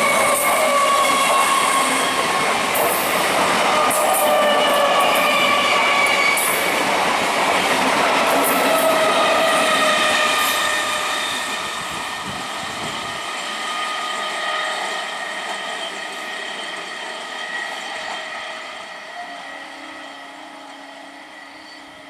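A train passing close by: loud rumble and clatter of wheels on the rails, with several high, slowly sliding tones over it. About ten seconds in it begins to fade steadily as the train moves away.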